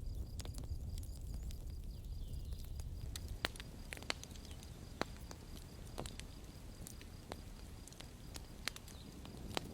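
Campfire crackling: a steady low rumble of burning wood with irregular sharp pops and snaps, several of them standing out from about three seconds in.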